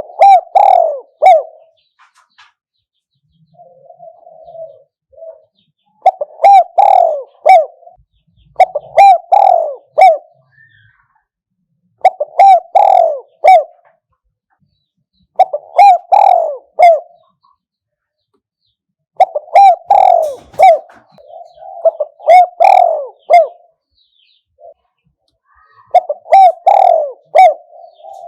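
Spotted dove cooing. It gives about eight loud phrases of about a second and a half each, a few seconds apart, with softer cooing between some of them.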